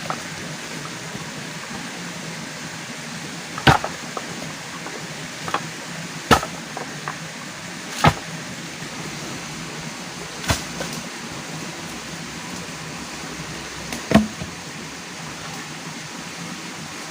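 Five sharp blows of a tool on wood, spaced two to four seconds apart, over a steady rushing hiss.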